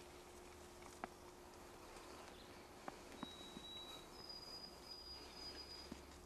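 Quiet woodland with a few faint clicks and a thin, pure whistle: a small bird holds one high note for under a second, then a higher note for about a second and a half.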